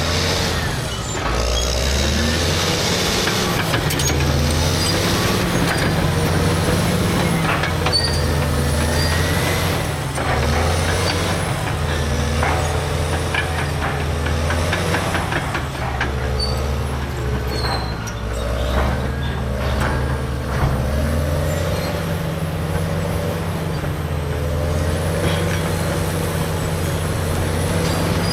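Caterpillar D6R crawler dozer's C9 diesel engine working under load, its revs rising and falling as it pushes, with scattered clanks and knocks and a faint high whine that wavers up and down.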